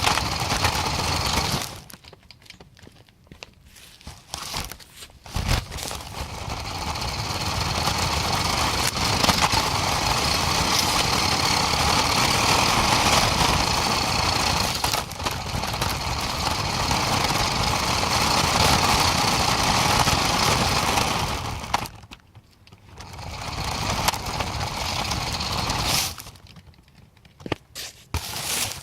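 Truck driving: engine and road noise, in long loud stretches broken by sudden quiet gaps about two seconds in, at about twenty-two seconds and near the end.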